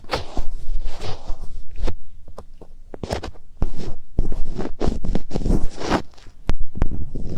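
Fingertips rubbing and scratching in the ears of an ASMR microphone for finger ear-cleaning: close, loud rustling and scraping strokes with sharp clicks and soft low thumps, easing off for a moment in the middle.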